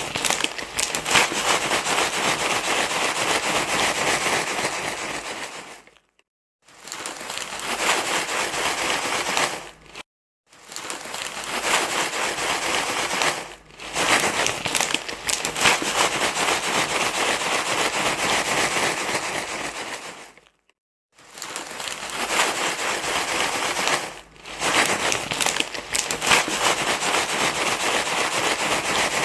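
Crinkling rustle of crumpled material, loud and dense, in stretches of several seconds broken by short silent gaps.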